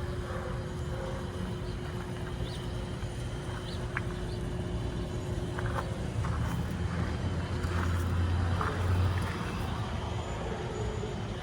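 1975 Jeep CJ5 engine running steadily, swelling louder for a few seconds about two-thirds of the way in, then settling back.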